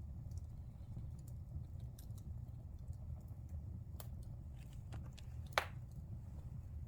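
Wood fire crackling in a fireplace: scattered snaps and pops over a low steady rush, with the loudest sharp pop about five and a half seconds in.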